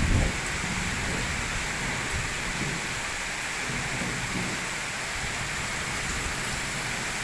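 Steady rain falling in a thunderstorm: an even, unbroken hiss.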